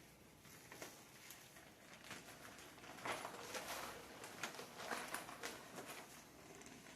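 Plastic cover of a mini greenhouse rustling and crinkling as it is handled and rolled up, with small clicks, busiest in the middle seconds.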